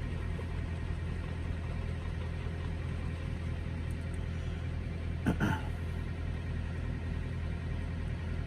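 Steady low hum of a truck's idling engine heard inside the cab. A brief short throat sound about five seconds in.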